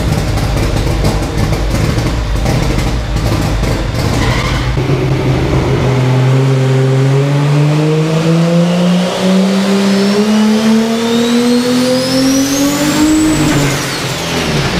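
Car engine pulling hard under load, its note climbing steadily for about eight seconds with a high whine rising alongside, then dropping off near the end. Before the climb there are a few seconds of rough, crackling running with many sharp pops.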